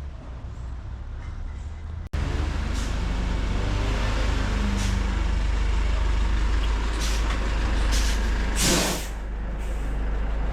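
Heavy vehicle engine rumbling close by, suddenly much louder about two seconds in, with a short sharp air-brake hiss about eight and a half seconds in.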